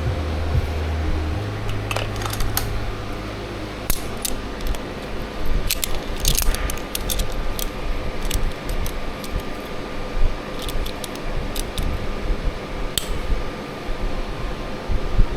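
Scattered light metallic clicks and clinks of small metal parts and hand tools being handled, over a steady mechanical hum. The clicks are spread irregularly, with a cluster around six seconds in.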